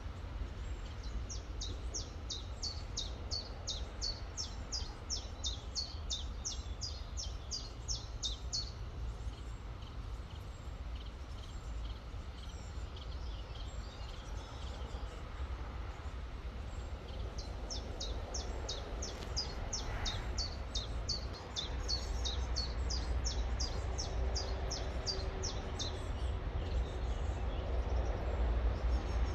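A songbird singing long phrases of rapid, high, evenly repeated notes, about two or three a second. The first phrase runs for several seconds and a second one starts a little past halfway through, over a steady low rumble.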